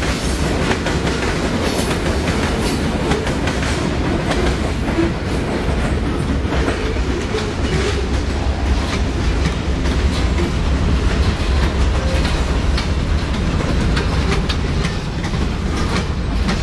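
Freight train cars, mostly covered hoppers, rolling past close by: a steady heavy rumble with the steel wheels clicking over the rail joints.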